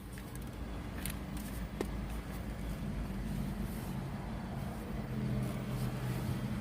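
Car engine running, heard from inside the cabin as a steady low hum that grows slightly louder partway through, with a couple of light clicks in the first two seconds.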